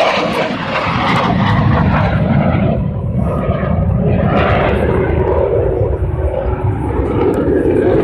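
Loud jet noise from USAF Thunderbirds F-16 fighter jets flying past, a steady heavy rumble.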